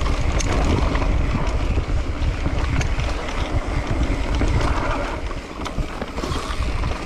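Wind buffeting the microphone of a mountain bike rider on the move, a heavy low rumble, with scattered rattles and clicks from the bike on a dirt trail.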